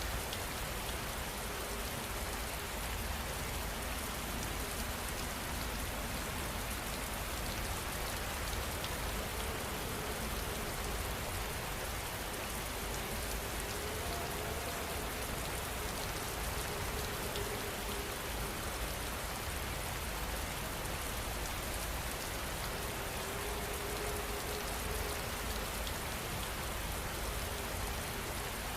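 Steady rain falling, an even hiss of countless drops landing on a surface, unchanging throughout.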